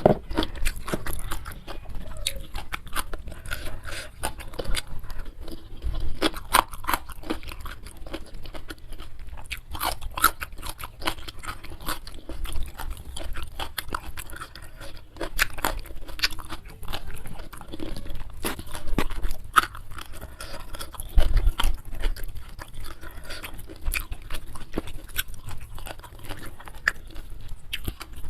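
A person chewing and crunching food close to the microphone: a dense, irregular run of crisp crunches and mouth clicks.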